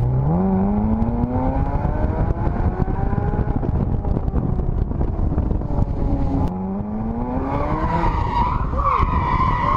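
A car engine accelerating hard twice, its pitch climbing each time, over a steady road rumble. The tyres squeal in the last couple of seconds.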